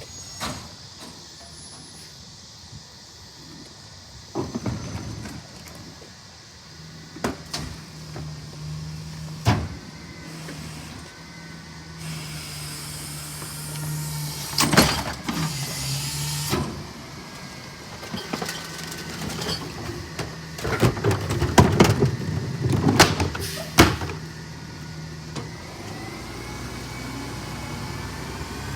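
Autocar ACX CNG rear-loader garbage truck with a McNeilus body at work: a steady engine hum runs under a series of sharp knocks and bangs, the loudest cluster about 20 to 24 seconds in. A rush of hiss comes from about 12 to 16 seconds in.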